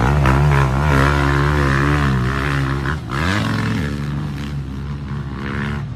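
Motocross bike engine running hard at steady revs. Its pitch dips briefly about halfway through as the throttle is rolled off or a gear changes, then climbs back and holds.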